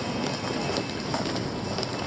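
City street ambience: a steady wash of traffic noise with scattered short clicks and taps.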